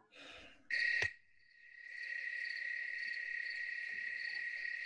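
Crickets chirring in a steady, high, unbroken trill that sets in about a second in.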